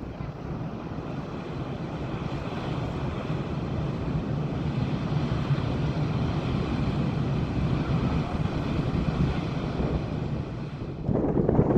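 Large ship's engines rumbling steadily, with wind on the microphone, slowly growing louder.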